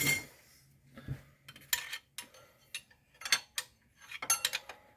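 Metal hand tools clinking and rattling, a series of short separate clinks and clatters, as a wrench is picked up and fitted to a bolt in the engine bay.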